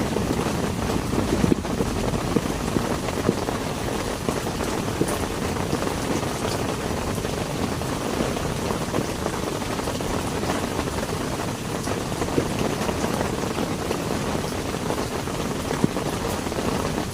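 Steady heavy rain, with individual drops striking throughout.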